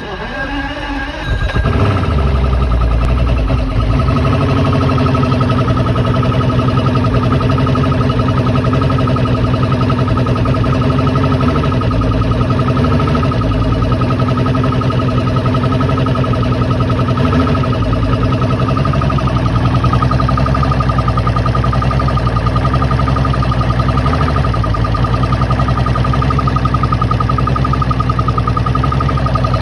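Mercury 225 Optimax V6 two-stroke direct-injection outboard engine coming up to speed in the first two seconds, then idling unevenly, its pitch wavering up and down every few seconds. This is a rough idle, with the revs jumping by up to 300 rpm.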